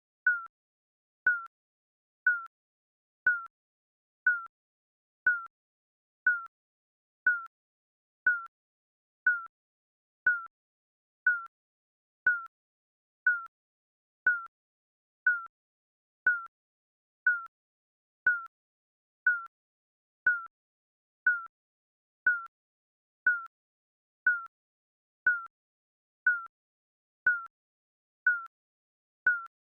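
Digital countdown timer beeping once a second: short, high beeps that dip slightly in pitch, with silence between.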